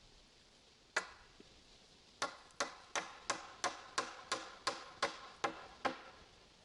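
A hammer striking, likely driving a nail into timber: one blow, then eleven quick, even blows about three a second.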